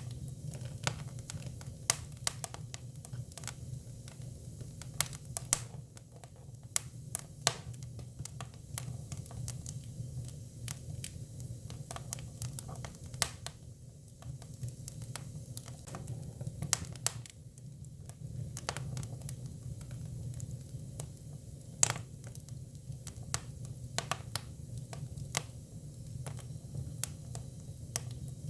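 Hinoki cypress firewood burning, with irregular sharp crackles and pops, several a second, over a steady low rumble.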